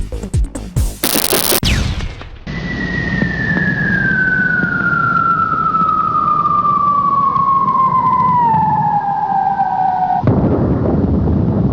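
Produced intro sound effects. A few quick booming hits and a whooshing sweep come first, then one long whistle falls steadily in pitch for about eight seconds. About ten seconds in it gives way to a heavy rumbling blast.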